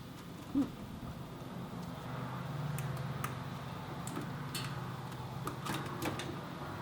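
Garage work under a car: a steady low hum with scattered sharp clicks and taps of hand tools on metal, and a short squeak-like sound about half a second in.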